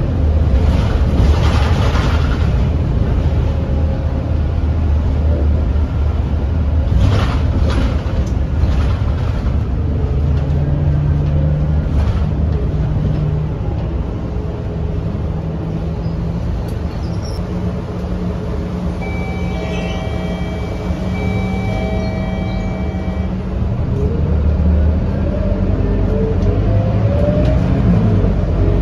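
Scania K230UB city bus's five-cylinder diesel engine running, its note rising and falling as the bus pulls away and moves through traffic. Two short hisses come near the start and about seven seconds in, and a steady high tone sounds for a few seconds about twenty seconds in.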